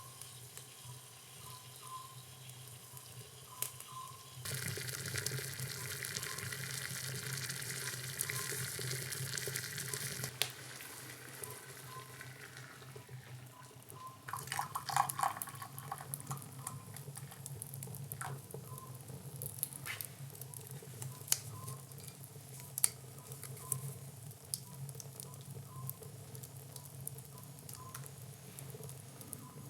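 Food sizzling in a frying pan, with a louder hissing stretch from about four to twelve seconds in. Scattered sharp clicks of utensils run through it, with a short clatter about halfway.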